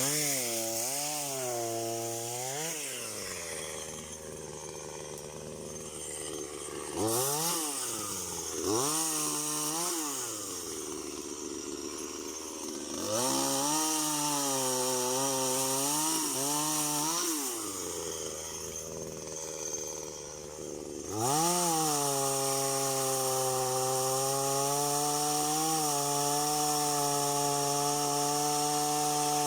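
Two-stroke chainsaw revved up and down in several short spurts, then held at full throttle from about two-thirds of the way in as it cuts into a rotten tree being felled.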